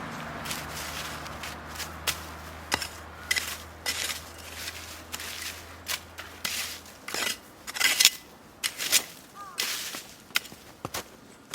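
Dry wood cracking and snapping in irregular sharp cracks, a few a second, loudest in a cluster about eight seconds in, over a low steady hum that stops about seven seconds in.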